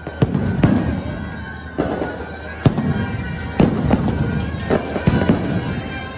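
Firecrackers going off in a string of about seven loud, sharp bangs at irregular intervals. Music with a held high tone plays beneath them.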